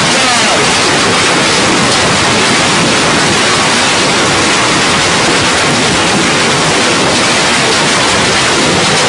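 Hailstorm: a dense, steady pelting of hailstones mixed with rain, loud and continuous.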